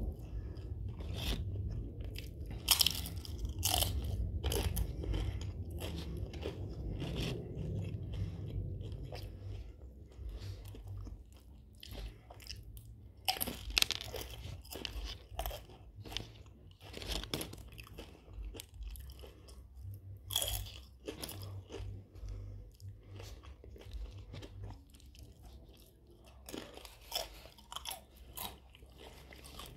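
A person chewing a mouthful of food close to the microphone, with many short sharp crunches and wet mouth clicks. The chewing is denser and louder for the first several seconds, then thins to scattered crunches and clicks.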